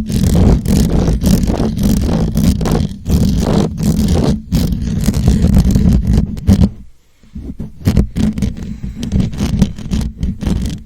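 Rapid scratching and rubbing directly on a microphone, a dense run of scrapes with a heavy low rumble. It breaks off for about half a second around seven seconds in, then resumes.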